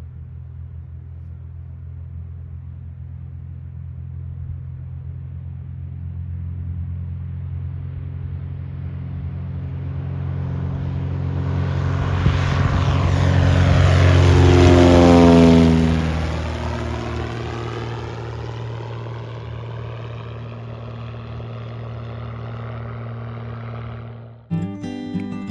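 Light single-engine propeller airplane passing close by: the engine and propeller note swells for about fifteen seconds, drops in pitch as the plane goes past, then fades. Acoustic guitar music starts about a second before the end.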